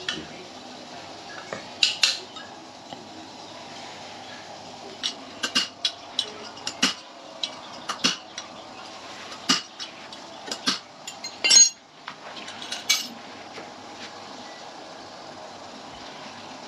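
Metal tools and parts clinking and tapping against each other: a scattering of irregular sharp clinks, the loudest a little past the middle, over a steady low background hum.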